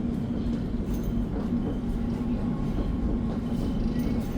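Passenger train running, heard from inside the carriage: a steady rumble with a low hum.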